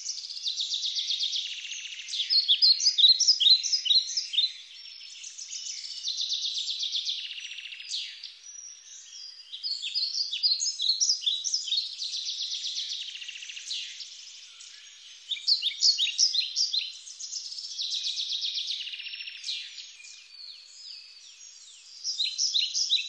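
Songbirds singing: phrases of rapid trills and quick falling whistled notes, each a few seconds long, with short pauses between them.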